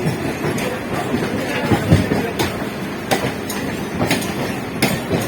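Electric multiple-unit (EMU) local train running along the line: a steady rumble of wheels on rail, with sharp clicks about once a second as the wheels cross rail joints.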